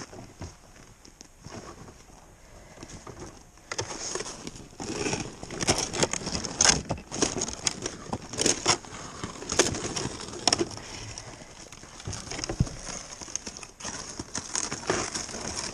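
Snow crunching and scraping irregularly as someone moves across it. The sound starts about four seconds in and grows busier and louder.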